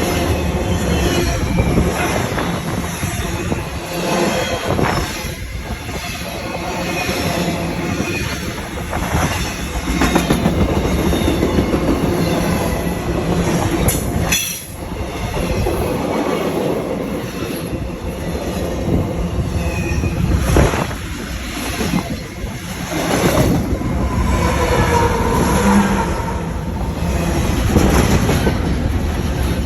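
Train passing close by: a continuous rumble of steel wheels on the rails, with thin wavering wheel squeals and scattered knocks over the rail joints.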